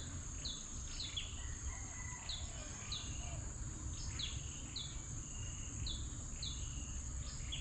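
A bird calling over and over with short, high notes that slide downward, irregularly, about one or two a second. A steady high insect drone and a low rumble run underneath.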